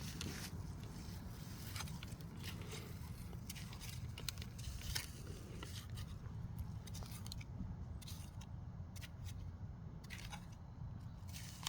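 Digging sweet potatoes out of soil, heard as scattered, irregular scrapes, crackles and small crunches, with a sharper click about five seconds in, over a steady low rumble.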